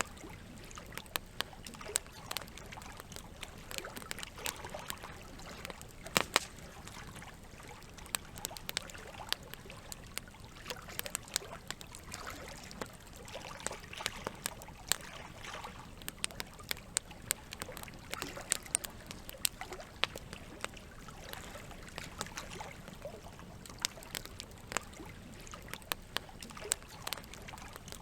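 Campfire crackling with frequent irregular pops, the loudest about six seconds in, over a steady trickle of running water.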